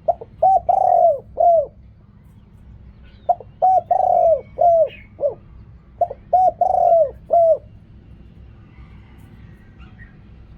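A spotted dove cooing loudly: three phrases about three seconds apart, each a few short coos around one longer, drawn-out coo.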